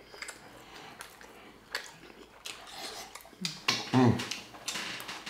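Close-miked chewing and mouth sounds of people eating juicy cheeseburgers: wet clicks and smacks scattered through, with a brief voice sound about three and a half to four seconds in.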